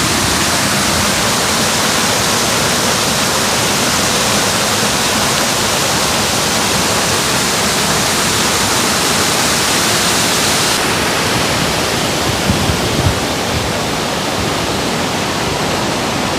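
Water rushing through the dam at a canal lock, a loud, steady roar whose hiss softens slightly about eleven seconds in.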